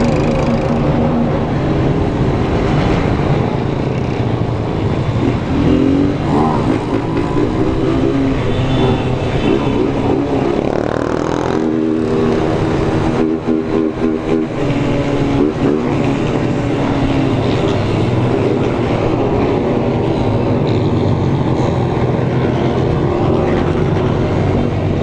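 Many small motorcycle engines running together in a large convoy, heard from a rider among them, with engine pitch rising and falling as bikes rev, most clearly around the middle.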